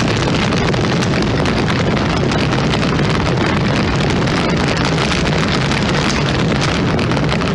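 A vehicle engine running steadily, mixed with loud wind noise on the microphone.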